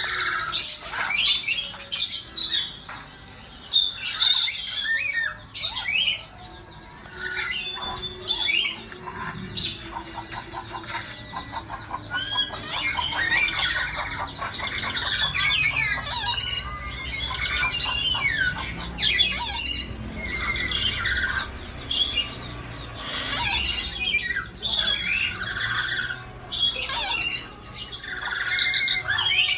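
A pet nuri Ambon parrot squawking over and over in short, harsh, loud calls, with a quick rattling run of calls about ten seconds in.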